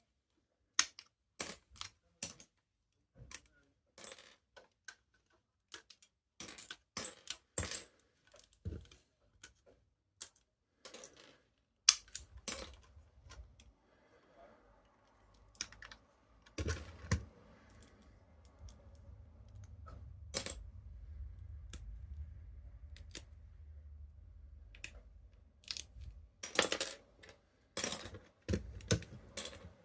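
Plastic Lego pieces clicking and clacking as a built model is handled, in irregular sharp clicks. A low steady rumble sits under them from about the middle of the stretch until near the end.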